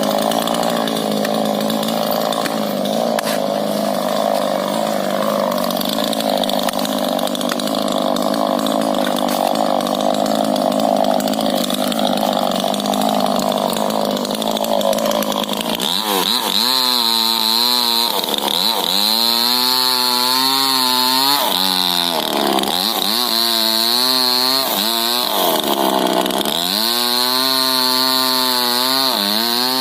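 Two-stroke chainsaw cutting rubber tree wood: the engine runs steadily at high revs for about the first half, then its speed dips and climbs back again and again.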